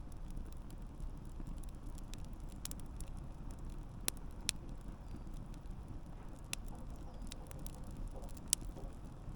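Wood fire burning with a steady low rumble and sharp, irregular crackles and pops of the logs, a few louder snaps standing out.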